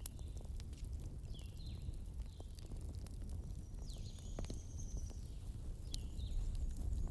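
Wood fire in a fireplace crackling, with scattered sharp pops over a steady low rumble, and a few short, high chirping whistles that slide downward.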